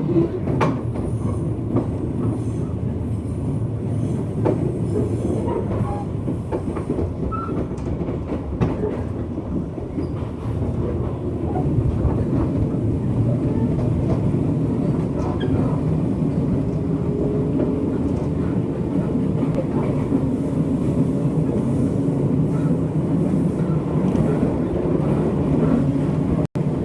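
Inside a JR West 201 series electric train's motor car, running along the line: steady rumble of wheels on rail with clickety-clack over rail joints, getting louder about twelve seconds in.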